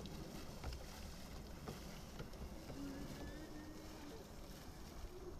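Low, steady wind rumble on the microphone with light knocks and splashes of water around a canoe, and faint far-off voices.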